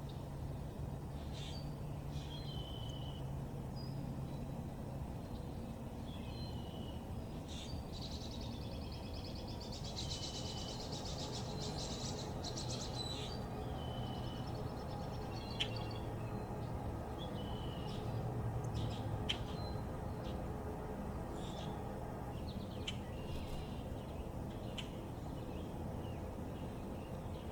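Backyard songbirds chirping and calling in short, scattered notes, with a rapid trill from about ten to thirteen seconds in, over a steady low background rumble.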